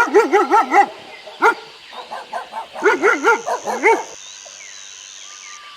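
Dog barking in quick runs of short barks. A run of about six opens it, a lone bark follows about a second and a half in, and another fast run comes around three to four seconds in.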